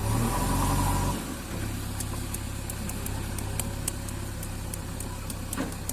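JCB 3DX backhoe loader's diesel engine running. It is a little louder for about the first second, then settles to a steady idle. Faint sharp ticks come at irregular intervals over the last four seconds.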